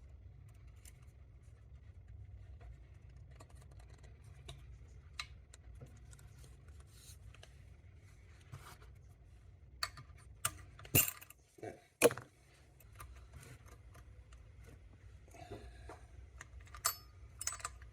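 Light metallic clicks and clinks of a Triumph gearbox's kickstart return spring and locking tab being worked into place by hand, with a few sharper, louder clicks a little past halfway.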